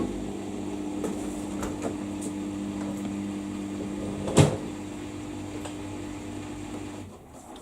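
Steady electrical hum from an appliance motor, with one sharp click about four and a half seconds in; the hum stops shortly before the end.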